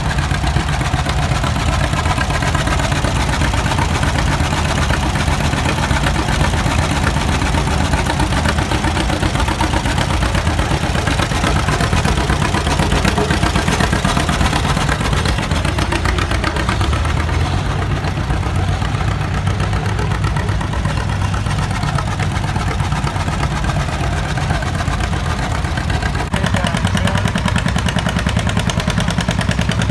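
Tractor engine running steadily, its note changing near the end.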